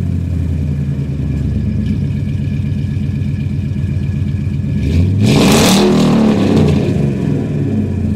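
2006 Ford F-150's engine through an MBRP 3-inch dual rear exit cat-back exhaust with long tube headers, idling steadily, then revved once about five seconds in and settling back to idle.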